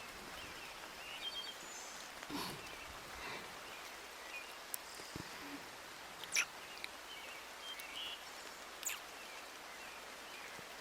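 Steady rain hiss with a few sharp drips or taps and faint, brief bird chirps.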